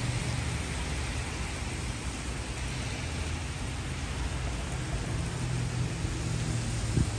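Steady hiss of rain and water spray on wet pavement, with a low hum underneath. A short dull knock comes near the end.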